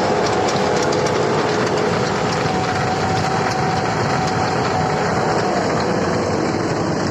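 Bobcat S650 skid-steer loader running a cold planer (milling drum) attachment: a steady engine drone with grinding noise and scattered small ticks.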